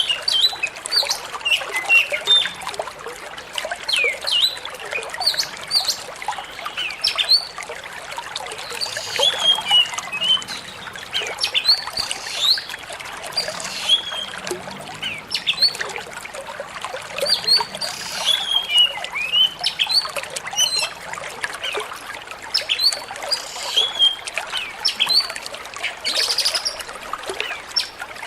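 Water trickling and splashing steadily, with many short, high chirp-like plinks throughout.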